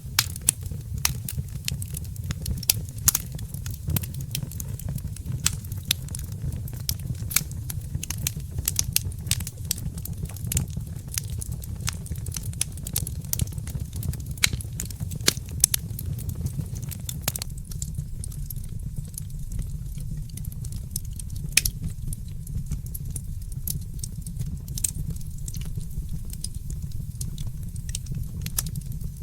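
Fireplace crackling: frequent sharp pops and snaps over a steady low rumble, thinning out somewhat in the second half.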